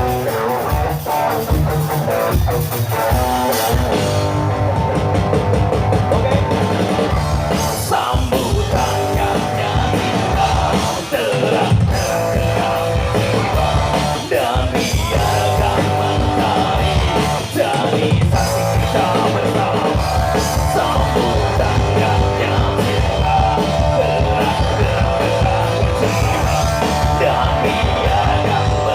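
Ska band playing an upbeat number on drum kit and guitar, with a steady beat.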